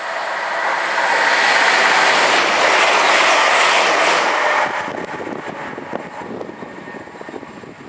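Electric passenger train running up to and past the platform on overhead-wire track: a rushing noise of wheels on rail that builds and is loudest as the front goes by. About two-thirds of the way through it cuts off suddenly, leaving a much quieter outdoor background with faint scattered clicks.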